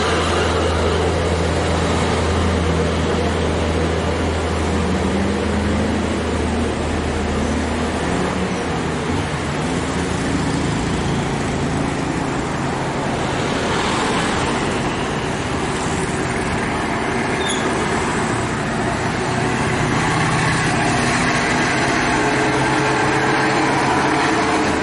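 Heavy dump truck's diesel engine working hard at full throttle up a steep incline, its note rising and falling, over steady road noise.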